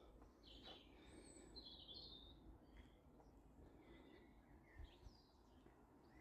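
Faint birdsong: scattered short chirps and whistled phrases over quiet outdoor background, with two soft taps about five seconds in.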